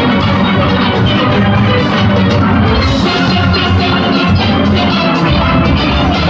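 Steel band playing: many steelpans together over drums, at a full, steady volume.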